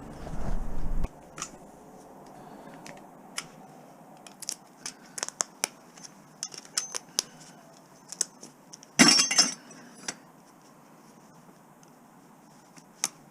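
Scattered light clicks and clinks of small hard objects being handled and set down, with one louder clatter about nine seconds in. A brief low rumble opens it.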